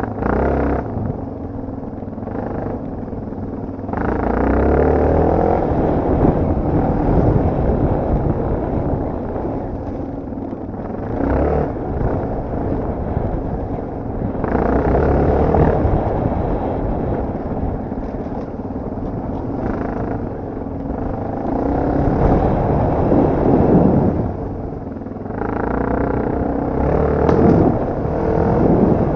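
Off-road dirt bike engine revving up and easing off again and again while riding, the pitch rising and falling with the throttle.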